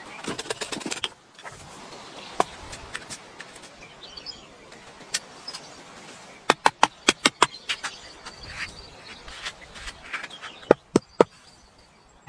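Sharp knocks of hand-tool strikes on wood: a quick run of about six around the middle and three close together near the end, with a few scattered single knocks. Birds chirp faintly behind them.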